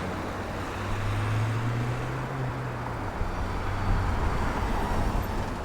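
Wind and road noise while riding a Silence S01 electric scooter, with a low hum that rises slightly in pitch about a second in and stops about three seconds in.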